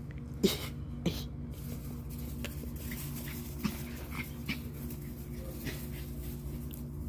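Dogs play-fighting: two sharp barks within the first second or so, then several softer short yips, over a steady low hum.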